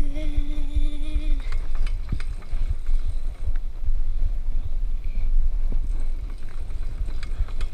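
Heavy wind buffeting and handling rumble on the microphone with scattered small clicks, as of a bicycle ride outdoors. A brief steady high-pitched tone sounds for about a second and a half at the start.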